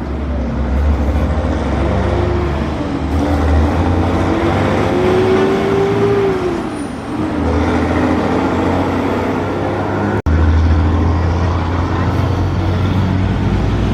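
Truck engines running in road traffic, with a strong low rumble; midway one engine's pitch rises and then drops as it pulls away. About ten seconds in the sound breaks off for an instant.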